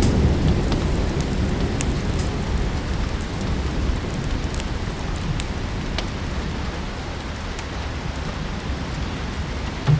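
Steady rain with a low thunder rumble dying away in the first second or so, and scattered sharp crackles and pops of a wood fire in a fireplace.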